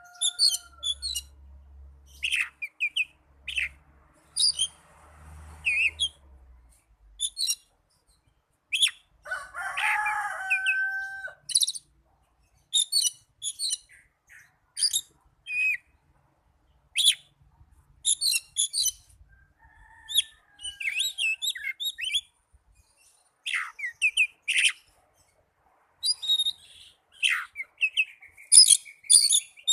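Oriental magpie-robin (kacer) singing: short, varied phrases of high chirps and whistles separated by brief pauses, with one lower call about a third of the way through.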